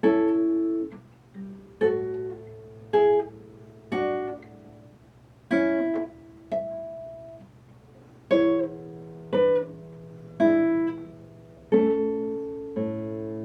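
Solo acoustic guitar playing a slow passage, with about a dozen chords and notes plucked one after another and each left to ring and fade.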